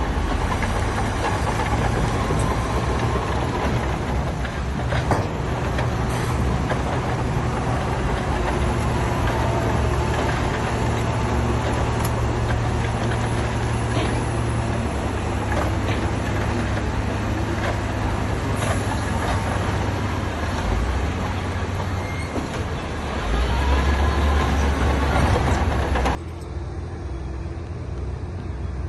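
Heavy diesel construction machinery running steadily, with a few short knocks. Near the end the sound cuts abruptly to a quieter engine.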